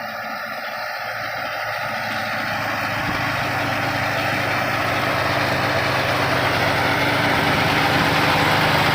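Tractor engine running steadily, growing gradually louder throughout.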